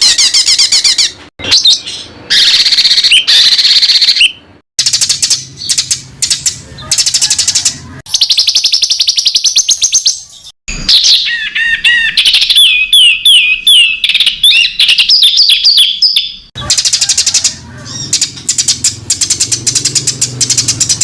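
Songbird song for tutoring competition birds: loud, dense runs of rapid repeated notes, trills and sliding whistles. Several recordings are spliced together, so the song cuts off and restarts abruptly a few times.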